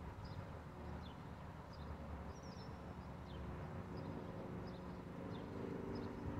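Car engine running steadily at low speed, with birds chirping repeatedly in short high notes over it.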